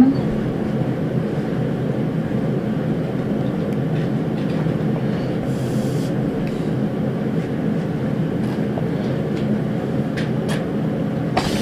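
Steady, unbroken rumbling noise with a faint low hum, like a running machine.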